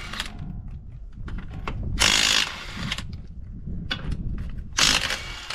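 Impact wrench run in short bursts about two and a half seconds apart, loosening the lug nuts on a tractor's front wheel.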